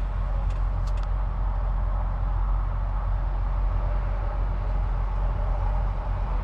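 Steady drone of a tractor-trailer's engine with road noise, heard from inside the cab while cruising on the highway.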